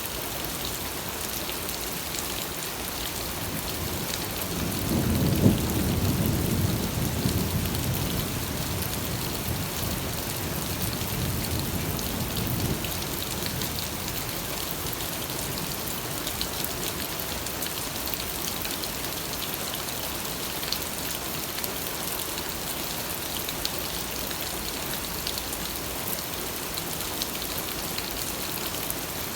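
Steady rain falling, with a low roll of thunder that builds about four seconds in, is loudest soon after, and fades out over the next several seconds.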